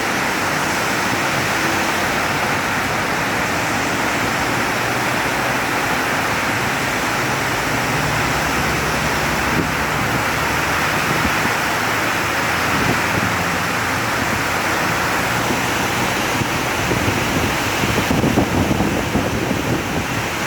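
Heavy rain pouring steadily, a dense even hiss. Some low, uneven buffeting from wind on the microphone comes in near the end.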